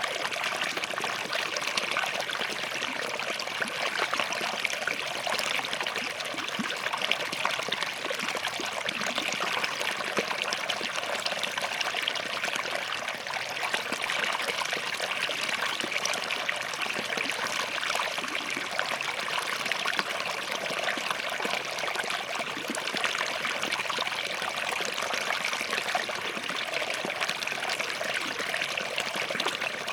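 Shallow forest stream running steadily between rocks, a continuous babble and trickle of water.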